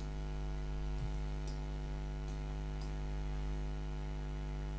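Steady electrical mains hum from the recording setup, with a few faint clicks scattered through it.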